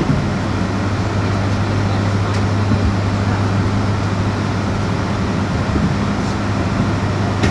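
Inside a moving electric bus: steady road and tyre noise with a constant low hum.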